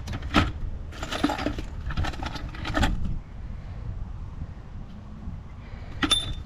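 Metal tools and copper fittings being handled, a run of short clinks and knocks in the first few seconds and another near the end, over a low steady background rumble.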